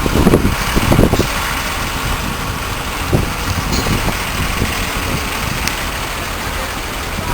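Tour boat's engine idling with a steady low rumble, with a few brief voices in the first second.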